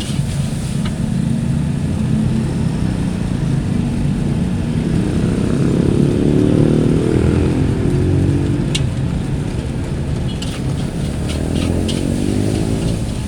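Motorcycle engines in passing roadside traffic, their pitch rising and falling as they go by, over a steady traffic hum. Several sharp metallic clinks come near the end.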